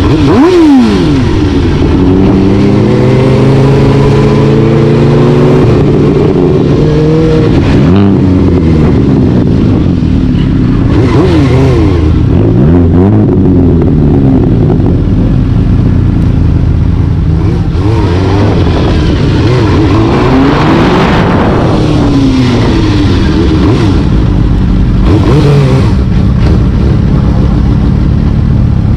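Motor vehicle engine running hard under way, its pitch climbing steadily then dropping as it shifts, with several more quick revs rising and falling over a constant loud drone.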